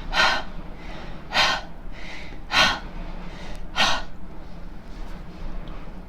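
A woman breathing out the unvoiced "h" sound four times, short breathy puffs of air about a second apart, with a quieter stretch after them.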